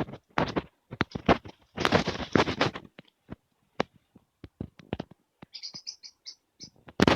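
Scraping and scratching in short rough bursts for about three seconds, then scattered light clicks and taps, a few short high squeaks, and one louder scrape at the very end.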